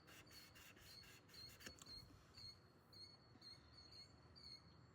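Near silence, with faint short high chirps repeating about twice a second.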